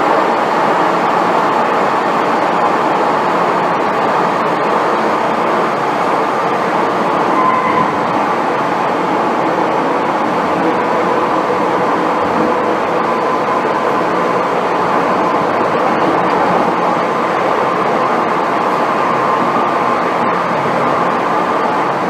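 Hong Kong MTR M-Train electric multiple unit heard from inside the car, running steadily with an even rumble of wheels and running gear. Faint whining tones come and go over it.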